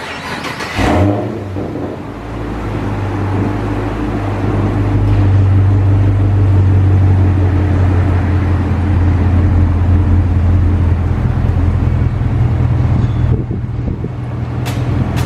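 Chevrolet Camaro 2SS's 6.2-litre V8 starting with a short burst about a second in, then settling into a steady idle.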